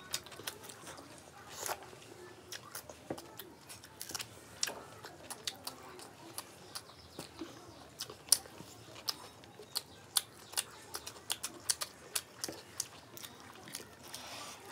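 People chewing fried rice and chilli chicken eaten by hand: many short, irregular mouth clicks and smacks, with one louder click about eight seconds in.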